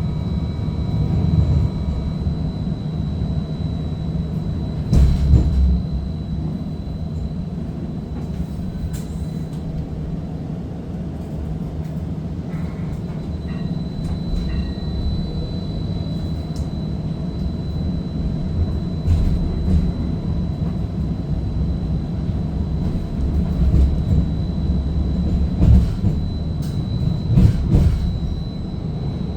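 Seattle First Hill Streetcar running between stops, heard from inside the car: a steady low rumble of the car rolling on the rails, with a thin steady high whine and occasional short knocks and clicks, a few louder ones about five seconds in and near the end.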